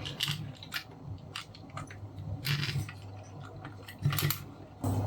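Scattered short clicks and rustles of a small plastic device being handled, over a low steady hum that gets louder near the end.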